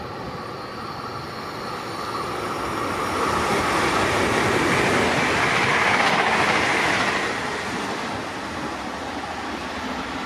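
Regional train passing through the station at speed on the near track. The rush of wheels on rail swells to its loudest about five or six seconds in, then fades as the train goes by.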